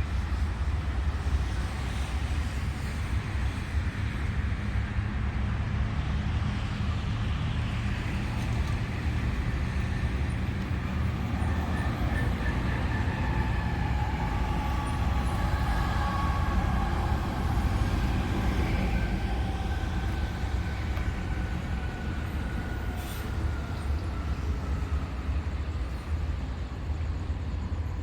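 Road traffic passing, over a steady low rumble, with a faint tone that slowly falls in pitch through the second half.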